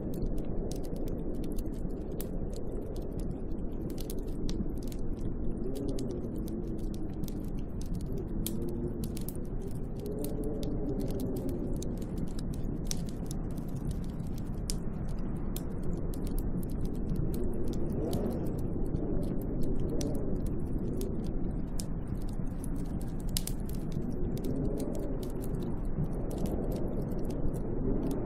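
Snowstorm wind blowing steadily around a hut, with gusts that moan in pitch, rising and falling every few seconds. Scattered small sharp ticks run through it.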